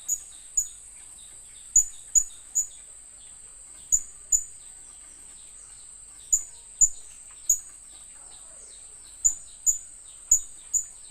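Blue-crowned hanging parrot (serindit) giving sharp, very high-pitched calls in pairs and threes, about fourteen in all, over a steady high hiss and faint softer chirps.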